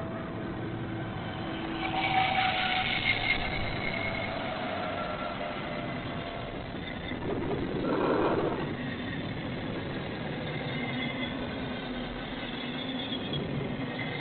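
A train running by: a steady rumble with faint steady tones, and two louder swells, about two seconds in and about eight seconds in.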